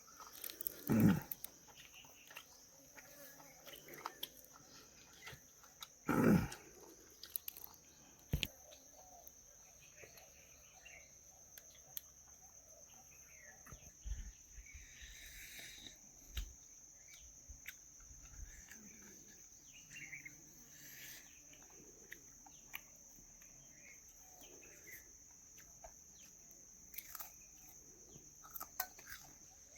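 Steady high-pitched insect chirring, with a few sudden louder sounds, the loudest about a second in and about six seconds in.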